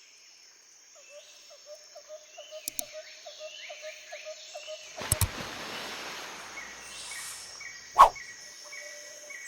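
Birds and insects calling, with steady repeated chirps. A rush of noise comes in about five seconds in, and a single loud sharp sound stands out near the end.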